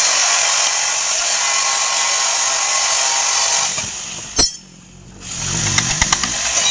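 A power tool running steadily with a high, hissing whine. It cuts out with a sharp click about four and a half seconds in, then spins back up about a second later.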